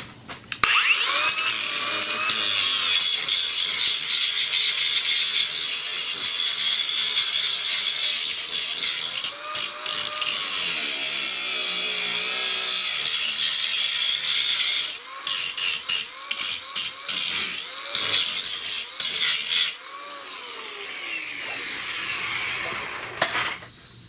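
Aerosol spray paint can spraying with a steady hiss, then a series of short spurts, and finally a quieter spray near the end.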